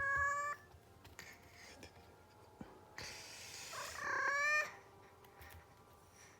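Cat in heat calling: two drawn-out yowls about a second long each, the first ending about half a second in and the second around four seconds in.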